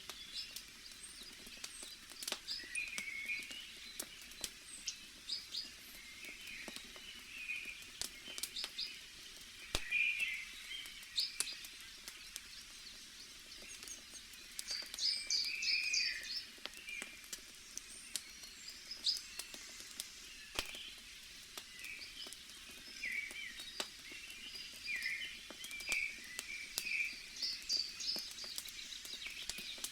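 Wood fire crackling with scattered sharp pops, over many small birds chirping.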